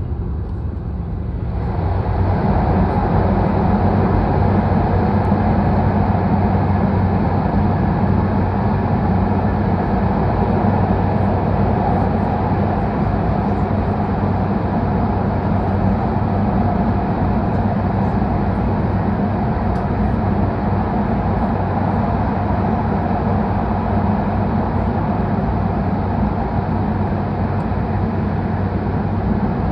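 Running noise of an H5 series Shinkansen train heard inside the passenger cabin. About a second and a half in it jumps sharply in loudness as the train enters the Seikan Tunnel, then stays as a loud, steady rumble.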